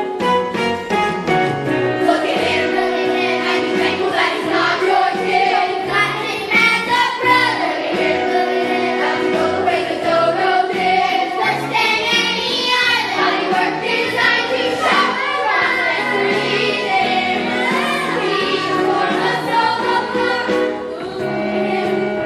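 A group of young voices singing a musical-theatre number over instrumental accompaniment, the voices coming in about two seconds in.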